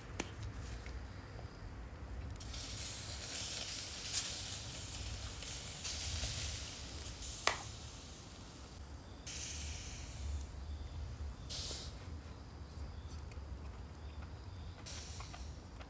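Hissing from a charcoal fire with food grilling over it, coming in bursts of one to three seconds, with one sharp pop about halfway through, over a steady low rumble.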